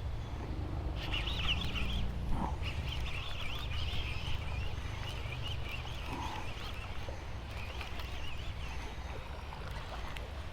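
Birds chirping and singing in a steady chorus of wavering high calls, over a low, steady rumble.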